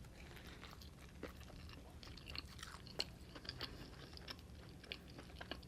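A person chewing a mouthful of steak burrito, close to the microphone: soft chewing with many small, scattered mouth clicks.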